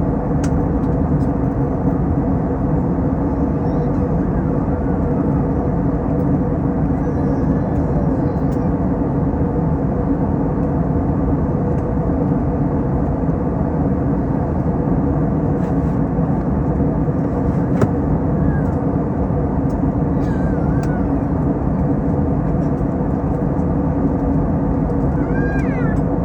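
Airbus A321 cabin noise in flight: a steady drone of engines and airflow, with a constant low hum running through it.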